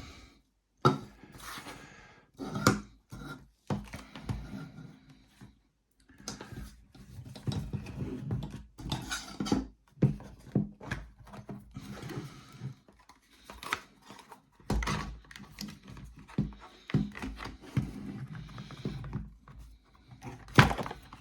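Plastic heat gun casing being handled and taken apart by hand: irregular clicks and knocks of plastic parts with rustling handling noise between them.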